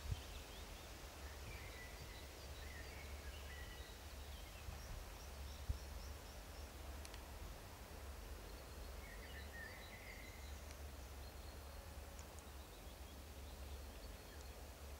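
Faint, steady low rumble of a freight train of tank wagons rolling away, with birds chirping now and then over it.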